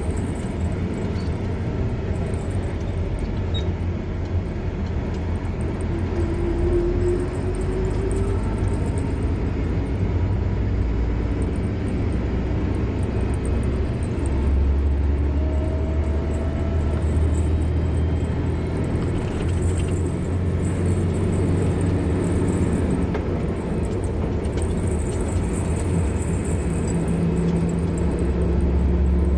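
A car driving on a road: a steady low engine and road rumble, with the engine note shifting slightly as it goes.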